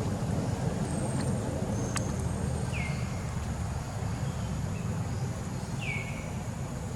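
Two short high calls, each falling in pitch, about three seconds apart, over a steady low outdoor rumble. There is a single sharp click about two seconds in.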